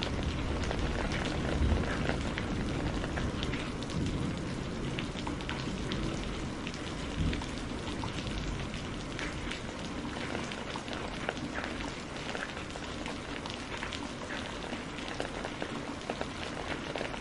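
Steady rain falling on hard surfaces, with many individual drops ticking and pattering. A faint low rumble of distant thunder dies away in the first couple of seconds.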